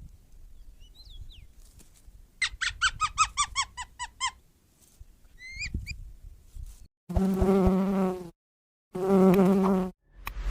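A buzzing insect droning with a steady low pitch in two spells, each cut off abruptly. It follows a quick run of about a dozen short chirping notes in the first half.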